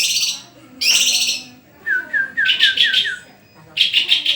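Murai songbird singing: short phrases of fast, high repeated notes about a second apart, with a run of six short, lower down-slurred whistles in the middle.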